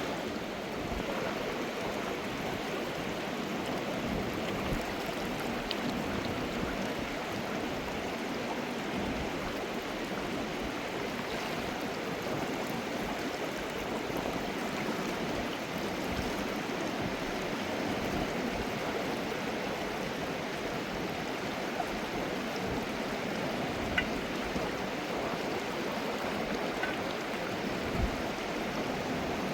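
Mountain river water rushing steadily, with a couple of faint knocks near the end.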